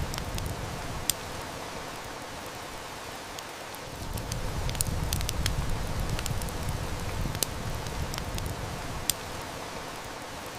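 Wood fire crackling, with a handful of sharp snaps and pops scattered through it, over a steady hiss of heavy rain. A low rumble swells and fades underneath.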